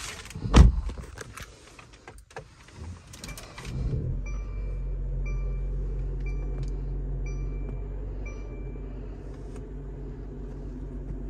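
A heavy thump about half a second in and a few clicks, then the 2020 Mercedes-Benz C300's 2.0-litre turbocharged four-cylinder starts about four seconds in and settles into a steady idle. A two-tone chime beeps about once a second for several seconds after the start.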